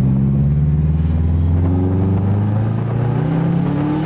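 Nissan 240SX's SR20 four-cylinder engine accelerating hard under load, its pitch climbing steadily through one gear, in a test pull to see whether the engine breaks up.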